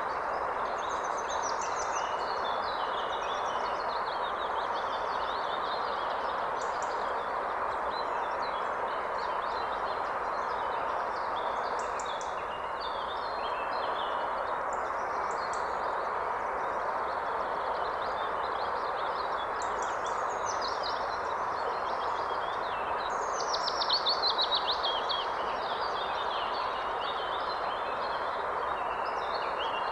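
A river flowing steadily, with several songbirds singing over it. About three-quarters of the way through, one bird gives a louder run of rapid notes.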